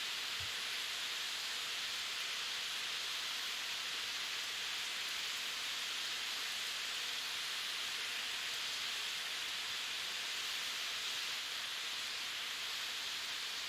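Steady sizzling hiss of ground beef and vegetables frying in a cast iron skillet.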